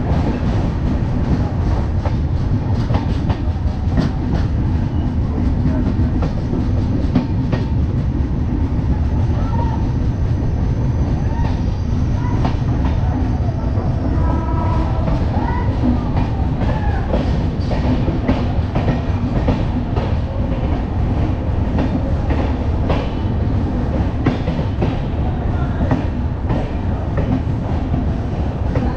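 Passenger train running at speed, heard from the open doorway of a coach: a steady loud rumble of wheels on rail with irregular clicks and clatter throughout.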